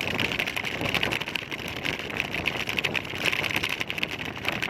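Riding noise from a scooter in motion: wind buffeting the microphone over the steady rush of the road and traffic.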